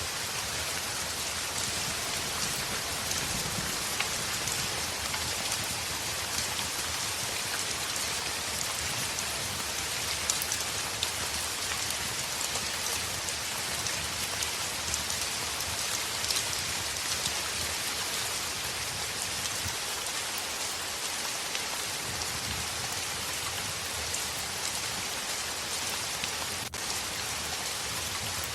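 Heavy rain falling on a window: a steady, dense hiss with scattered sharp ticks throughout.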